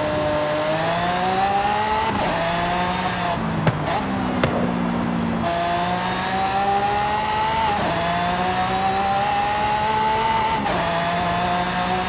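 Mercedes-AMG GT 4-Door Coupe engine pulling under acceleration. Its pitch climbs steadily and drops sharply at each upshift, three times, with a lower steady stretch partway through that holds two short sharp cracks.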